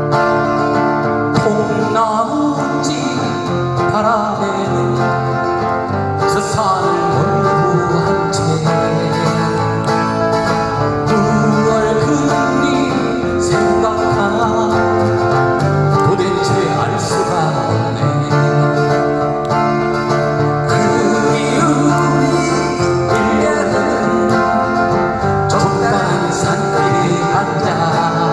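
Live band music led by acoustic guitar, playing a Korean folk-pop song at a steady volume.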